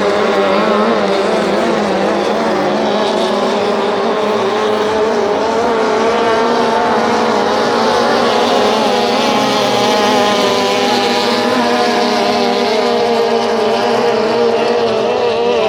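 Outboard motors of racing tunnel boats running at high revs, a steady loud drone whose pitch wavers slightly as the throttles and hulls work over the water.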